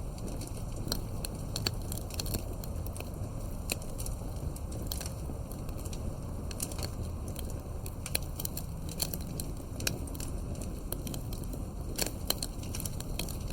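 Wood fire burning with a steady low rush and frequent irregular sharp crackles and pops of burning wood.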